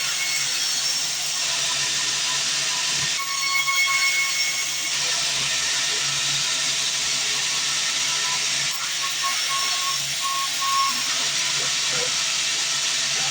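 Band sawmill running: a steady, loud, high-pitched hiss with a faint thin whistle over it. The sound shifts slightly in character a few times.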